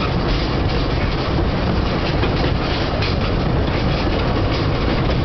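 Passenger train running steadily, a continuous rumble of wheels on the track with light rhythmic clatter, heard from an open carriage window.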